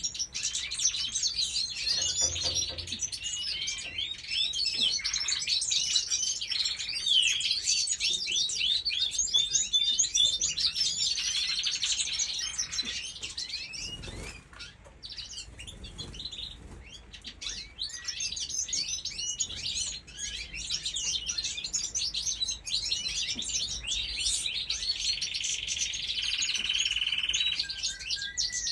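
A group of small birds chirping and twittering together: a dense chatter of short, high notes that eases off for a few seconds about halfway through, with a steadier trill near the end.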